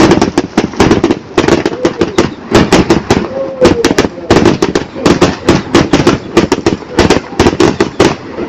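A string of firecrackers going off: rapid, irregular sharp bangs, several a second, with no pause.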